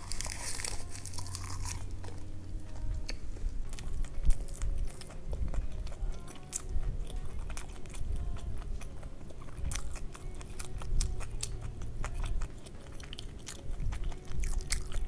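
A bite into a seaweed-wrapped mouthful of mixed rice, crisp at first, then close-up chewing with many small mouth clicks. A low air-conditioner hum runs underneath.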